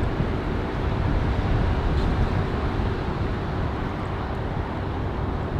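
A steady engine drone under a low rumble of wind on the microphone.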